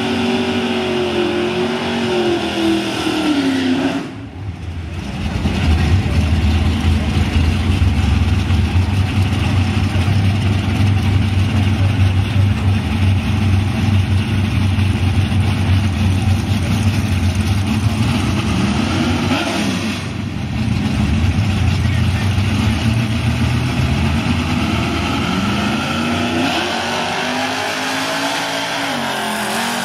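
Drag cars' engines running hard at the starting line during a burnout: a long loud steady engine run in the middle, with revs rising and falling near the start and again near the end.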